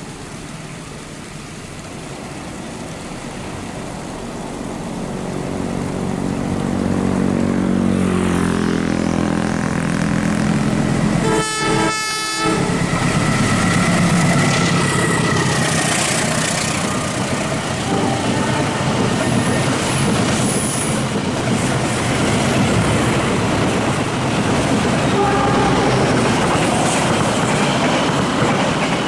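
A fast train approaching and passing close by. It grows louder over the first several seconds while its horn sounds with a slightly falling pitch, then the cars rush past with a steady clatter of wheels over the rails.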